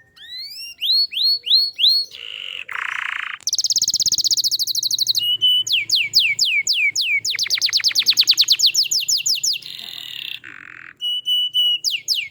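Domestic canary singing a long, unbroken song of changing tours: a run of rising whistled notes, a buzzy roll, rapid trills, repeated falling sweeps and a few short level notes near the end. This is the full 'gacor' song used to prompt other canaries to sing.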